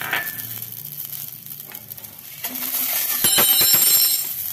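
Mustard seeds crackling in a little hot oil in a stainless-steel kadai. About three seconds in, chopped onions are slid off a steel plate into the pan: the frying gets louder for about a second, with a high metallic scrape of plate against pan.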